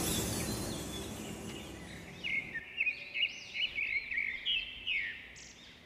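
A rushing sound fades away over the first two seconds, then small birds chirp in a quick, busy run of short rising-and-falling chirps.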